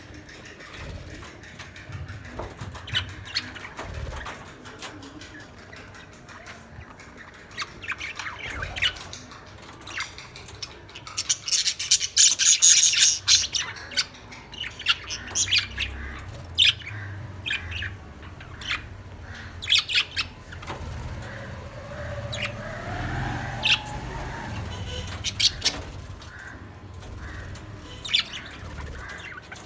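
Lovebirds chirping and squawking: a run of short, sharp, shrill calls, densest and loudest from about 11 to 14 seconds in, with scattered single calls before and after.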